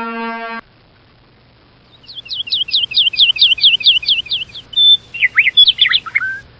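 A songbird singing: a quick run of about a dozen alike whistled notes, then a short varied phrase of sliding notes. Before it, a held musical note cuts off about half a second in.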